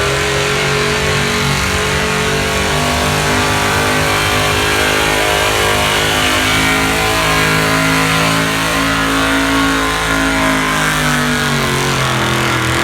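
Pickup truck engine held at full throttle while pulling the sled, running steadily. The revs sag and fall off near the end.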